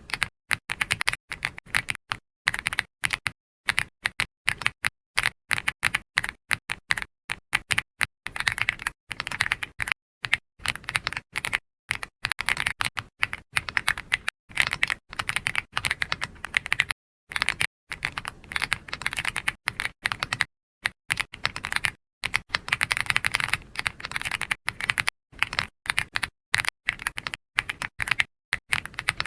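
Typing on a computer keyboard: a fast, uneven run of keystroke clicks with brief pauses between bursts.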